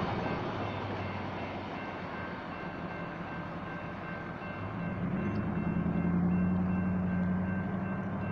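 Rumble of a departing freight train easing off, with the crossing's warning bell sounding as faint steady high tones. About five seconds in, a pickup truck's engine rises in pitch and grows louder as it pulls across the tracks.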